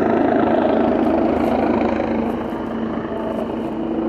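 Helicopter running, a loud steady rotor noise with a fast, even beat.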